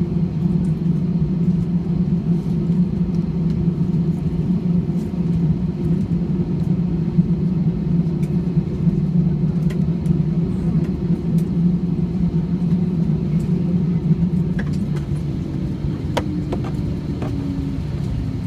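Steady low engine drone heard from inside a vehicle, with a few light clicks near the end.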